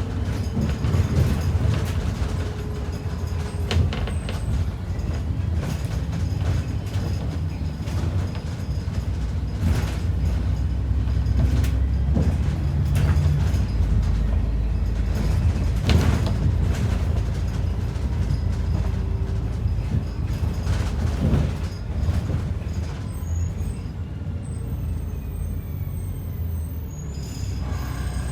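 Inside an ADL Enviro 400 double-decker bus: the engine and running gear give a steady low rumble, broken by a few sharp knocks.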